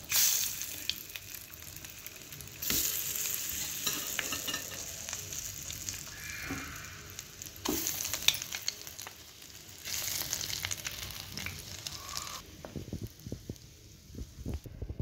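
Halved boiled eggs sizzling in hot oil and chilli-turmeric masala in a frying pan. The sizzle surges several times as more egg halves go in, with light clicks, and dies down near the end.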